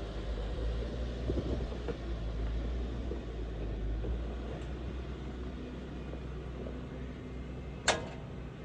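Jeep engine running steadily with a low rumble, and one sharp click near the end.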